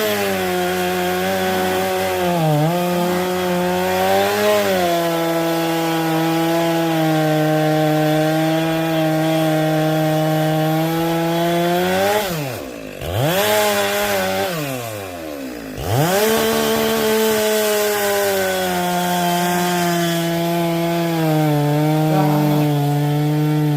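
Chainsaw running at high revs while cutting firewood, its engine note sagging briefly under load. Midway the revs fall away and climb back up twice before it runs steadily again.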